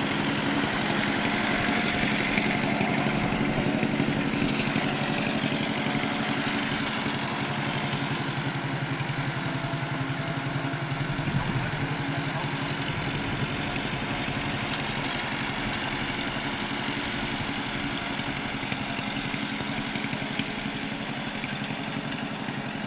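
Farm tractor engine running at a steady speed, growing gradually quieter over the stretch.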